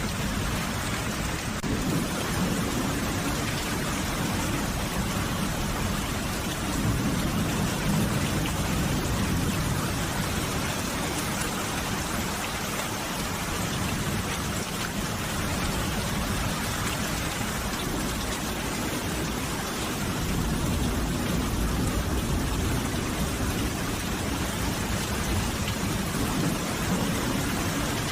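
Steady rain falling. A low rumble swells and fades underneath it twice, first a couple of seconds in and again about twenty seconds in.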